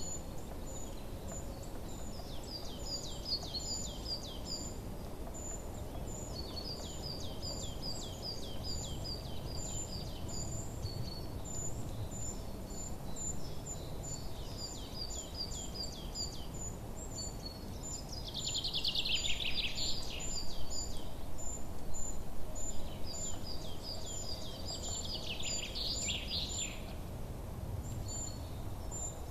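Small birds chirping: runs of short, high repeated notes, with two louder song phrases, one about two-thirds of the way through and one near the end. Under them is a steady low background rumble.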